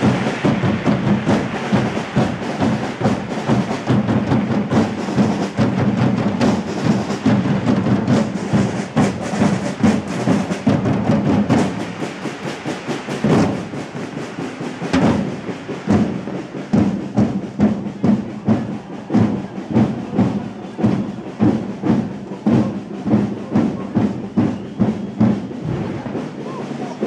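Procession drum band beating a steady marching rhythm, with a sustained low tone under the drums in the first half.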